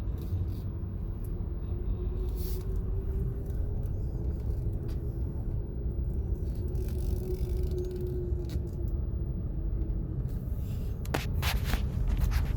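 Car driving, heard from inside the cabin: a steady low road and engine rumble with a faint engine tone that drifts slightly in pitch, and a few sharp clicks or knocks near the end.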